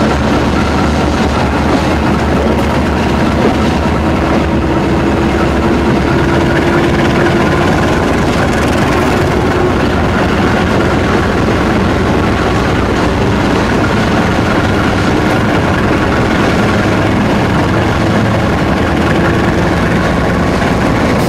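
Steady running noise of a moving passenger train heard from on board: a continuous rumble and rattle of wheels and carriage, with a faint steady hum.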